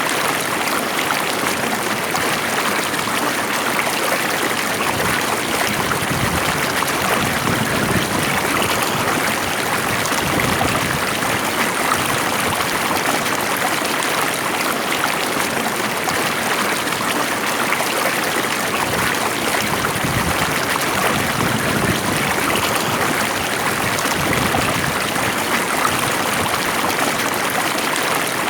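Water flowing steadily over a streambed, a calm, even rush with small trickling and gurgling.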